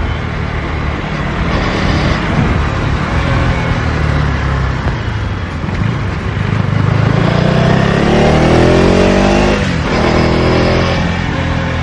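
KTM Duke 250 Gen3's single-cylinder engine running through its stock exhaust while riding in traffic. Revs climb steadily for a few seconds after the middle, then drop off sharply near the end and pick up again.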